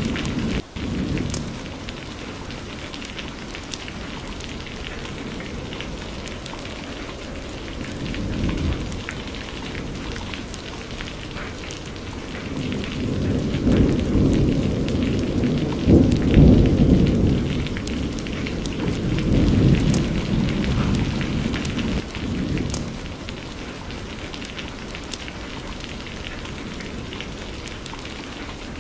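Steady rain falling, with rolling thunder rumbling deep and swelling through the middle, loudest about halfway through, then fading back to the rain alone.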